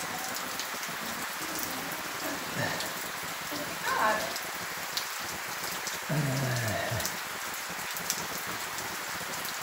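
Steady heavy rain falling, heard from under a corrugated roof, an even hiss with many small drop ticks. A few brief calls sound over it, the longest a low call falling in pitch about six seconds in.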